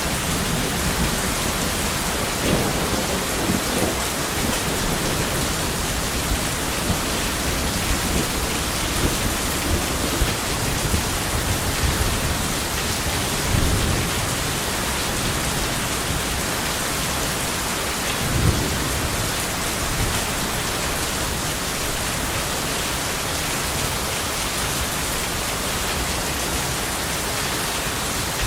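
Steady heavy rain with rolling thunder, the rumbles swelling and fading several times in the first half and once more about two-thirds of the way through.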